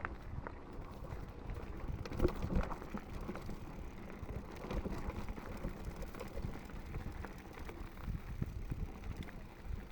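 Mountain bike riding down a rough trail: tyres rolling over dirt and rocks with constant rattling and irregular knocks, a couple of harder hits about two and a half seconds in.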